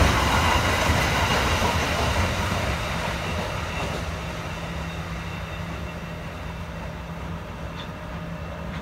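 Freight train's container flat wagons rolling past on the rails, the noise fading steadily as the end of the train moves away. A steady low hum comes in about three seconds in.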